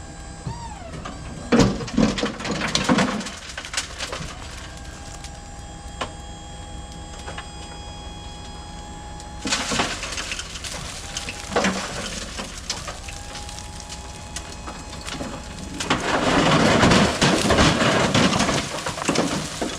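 Mini excavator running steadily with a thin hydraulic whine, as bucketloads of dug-out dirt and buried debris crash and crunch into an aluminum truck bed three times, the longest and loudest load near the end.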